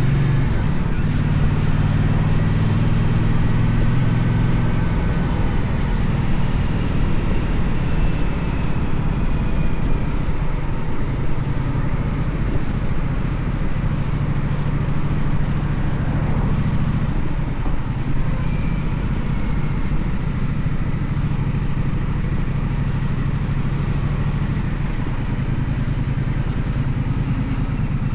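Gaokin GK1200 motorcycle engine running while riding, under a steady rush of wind and road noise. The engine note changes a few times, at about 5, 11 and 17 seconds in, then carries on.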